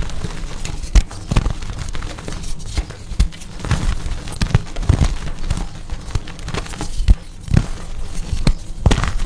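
Blocks of coloured gym chalk being crushed: a continuous run of irregular crunching and crackling, with a few sharper snaps about a second in and again around five and seven seconds in.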